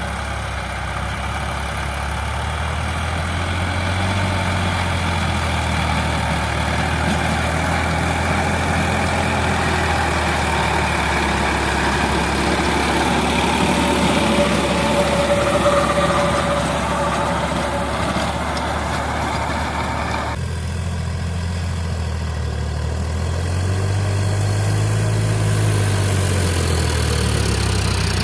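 Sonalika DI 750 DX tractor's diesel engine running steadily. About twenty seconds in, the higher part of the sound drops away abruptly, and near the end the engine speed rises and falls briefly.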